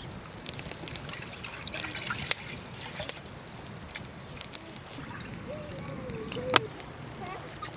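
Water trickling, with scattered sharp clicks. A short wavering tone sounds near the end, ending in one louder click.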